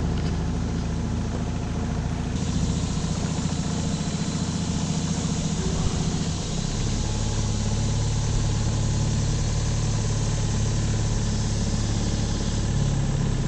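Tohatsu 9.8 four-stroke outboard motor running at low speed. Its pitch rises slightly about seven seconds in, and then it holds steady.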